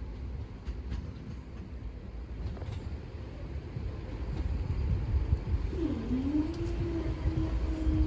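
Train running with a steady low rumble that grows a little louder. About six seconds in, a humming note comes in, dips and then rises to a steady pitch as the train picks up speed.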